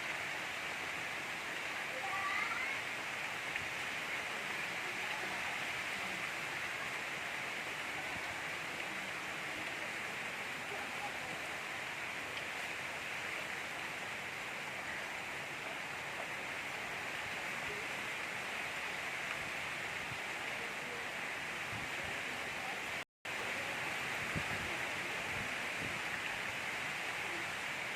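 Steady gentle rain falling, an even hiss of drops. It cuts out for an instant about 23 seconds in, then carries on.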